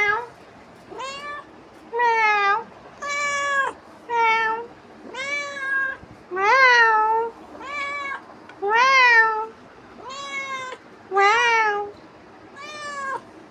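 Domestic cat meowing over and over, about a dozen meows roughly a second apart, each rising then falling in pitch.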